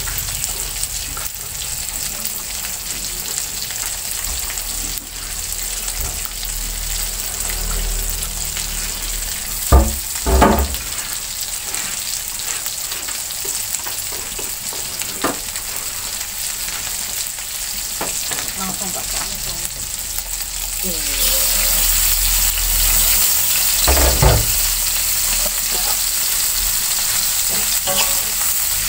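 Spice paste sizzling in hot oil in a steel wok, a steady frying hiss that grows louder about two-thirds of the way through. A few sharp knocks stand out, two close together near ten seconds in and another around twenty-four seconds.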